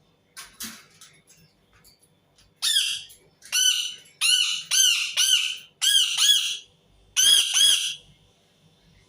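Indian ringneck parakeet screeching: a run of about nine loud, harsh calls, each arching up and down in pitch, coming singly and in quick pairs and triples.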